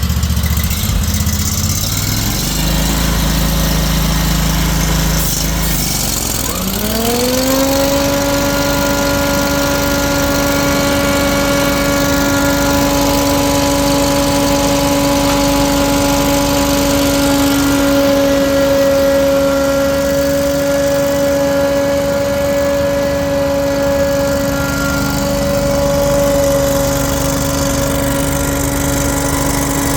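Scag Windstorm ride-on debris blower with its 37 hp Briggs & Stratton Vanguard fuel-injected engine running at a low warm-up idle. About six and a half seconds in, it revs up and the blower's whine rises quickly in pitch, then settles into a steady high tone.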